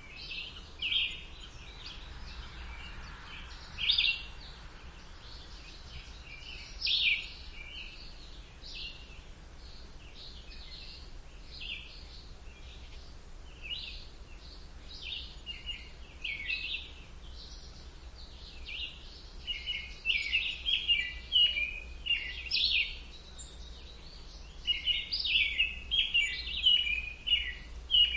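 Songbirds chirping in short, high notes, scattered at first and busier near the end, over a steady low background rumble.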